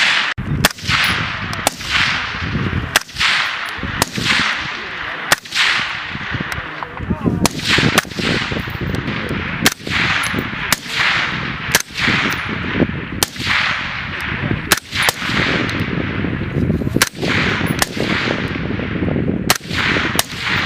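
Rifle shots fired on a live-fire range, roughly one a second at uneven spacing, each crack followed by a long echoing tail.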